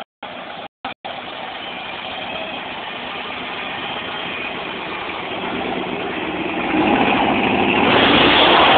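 Car engine running, broken into short snatches in the first second, then growing steadily louder, loudest near the end.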